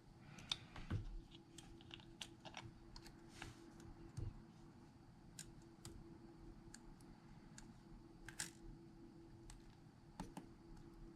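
Scattered small clicks and ticks of repair tools and phone parts being handled, with a short scrape about eight seconds in, over a faint steady hum.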